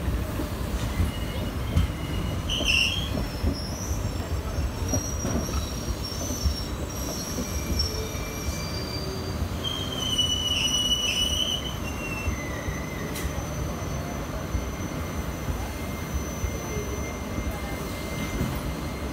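Passenger coaches of an express train rolling past on the adjacent track: a steady rumble of wheels on rails, with high-pitched wheel squeals coming and going.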